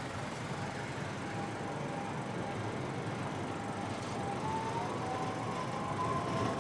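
Tram running along street track, with a faint steady whine that rises slightly in pitch about two-thirds of the way through.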